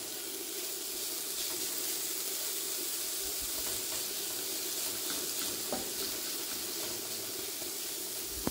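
Shredded green zucchini and onion sizzling in oil in a frying pan, a steady hiss, stirred now and then with a wooden spoon that gives faint scrapes.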